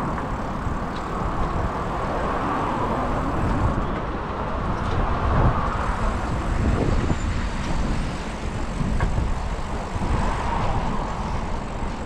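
City street traffic, with cars and other motor vehicles going past, heard from a moving bicycle, with a strong low rumble of wind on the microphone.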